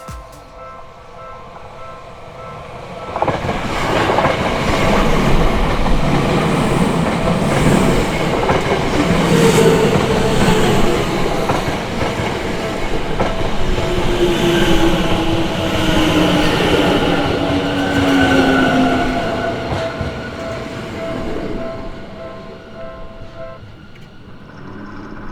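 Seibu Ikebukuro Line electric train passing over a level crossing, wheels clattering on the rail joints, with a motor whine that falls in pitch in the second half of the pass. The crossing's warning bell rings steadily throughout and stops about a second before the end.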